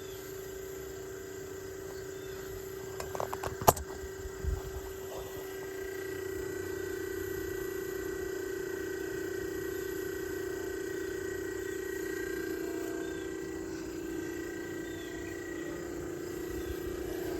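Tecumseh compressor of a 1956 Fedders half-horsepower room air conditioner running with a steady hum, freshly restarted after years idle. A sharp click and a few knocks come about three to four seconds in, and the hum grows a little louder about six seconds in.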